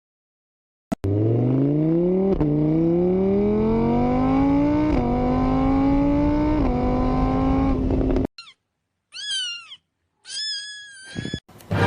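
A car engine accelerating through the gears, its pitch climbing and dropping back at three gear changes before cutting off suddenly; then a few short cat meows.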